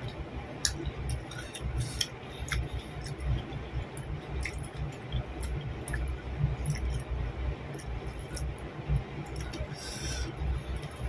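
Close-miked eating by hand: wet chewing and mouth clicks, with small squelches of fingers working soft fried eggplant in raw sambal. The clicks come irregularly, over a steady low rumble.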